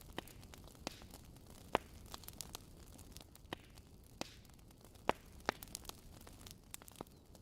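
Wood fire crackling in a fireplace: irregular snaps and pops over a low steady hiss, the sharpest pops about two seconds in and about five seconds in.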